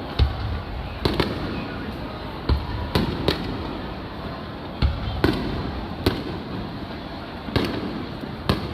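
Aerial fireworks shells bursting in an irregular series of sharp bangs, about ten in all, some in quick pairs, over steady background noise.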